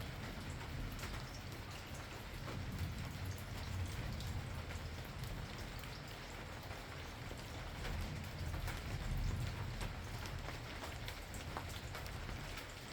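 Steady rain with many individual drops ticking on a hard surface. Under it is a low rumble that swells twice, a few seconds in and again past the middle.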